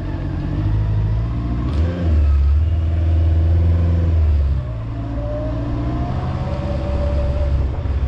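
A motor vehicle engine running under load, its low note dropping in steps twice, as with gear changes.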